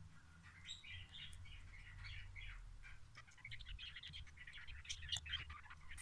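Small birds chirping and twittering in quick, busy runs of short notes, growing denser about halfway through, over a faint low hum.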